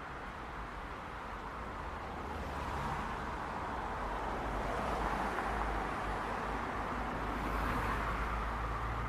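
City street traffic: a steady wash of car and tyre noise with a low engine rumble, swelling a few times as vehicles pass.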